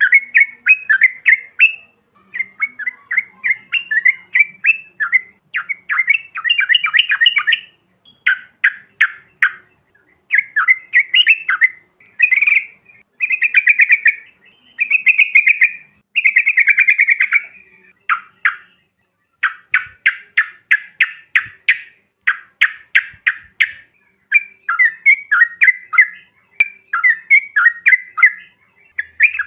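Yellow-vented bulbuls (trucukan) calling and chattering, a recording of several birds used as a lure call. It comes in loud bursts of rapid, bubbling notes broken by short pauses.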